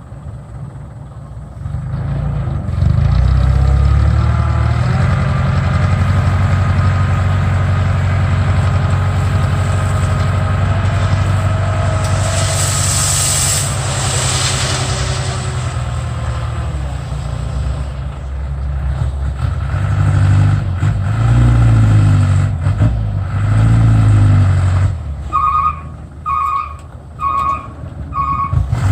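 Truck diesel engine running hard and steady, with a short burst of air hiss about halfway through, then revving up twice. Near the end a warning beeper sounds about one and a half times a second.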